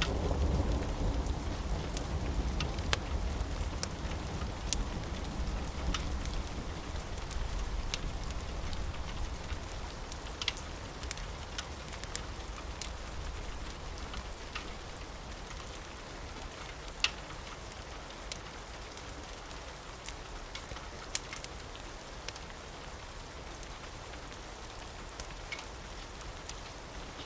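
Steady rain, with a low thunder rumble dying away over the first few seconds. Scattered sharp clicks sound throughout, over a rain hiss that grows gradually quieter.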